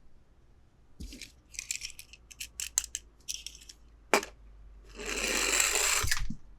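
Small objects being handled: a run of light clicks and rustles, a single sharp click, then a rasping, scraping sound lasting over a second.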